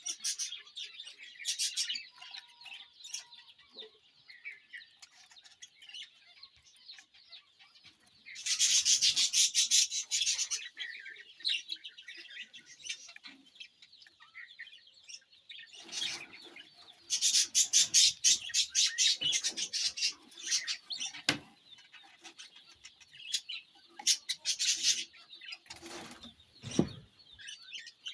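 Lovebirds chirping steadily, breaking three times into loud bursts of rapid, shrill chattering.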